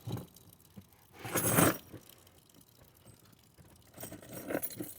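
Keys jingling and small objects being handled inside a car: scattered light clicks, with a short rustle about a second and a half in and more clinking near the end.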